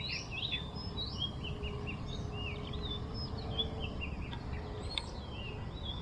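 Birds singing: a steady run of short whistled notes that rise and fall, over a low, steady outdoor rumble.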